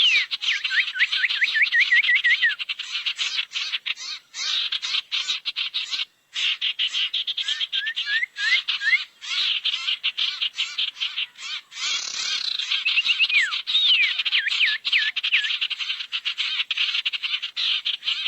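Bird-lure recording of sirtu bird calls: rapid, harsh chattering with runs of repeated swooping whistled notes, broken by a couple of brief pauses.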